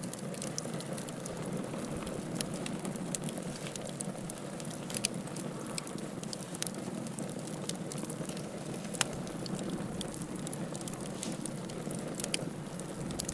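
Wood fire burning in a fireplace: a steady low rush of flame with irregular crackles and a few sharper pops of the burning logs.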